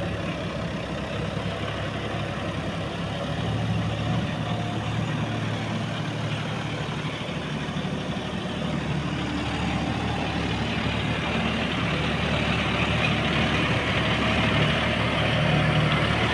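John Deere 5210 tractor's diesel engine running steadily, growing a little louder toward the end.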